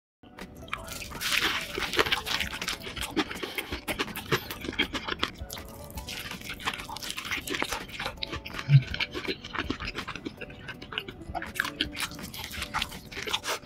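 Close-miked crunching and chewing of a crispy hash brown sandwich with fried chicken, a steady run of crisp crackles and clicks as it is bitten and chewed. A brief low sound about nine seconds in stands out as the loudest moment.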